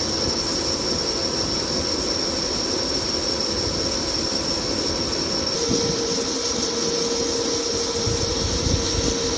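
CNC lathe running a turning cut: a steady high-pitched whine and lower hum over a rough machining noise, with the tones shifting slightly a little past halfway.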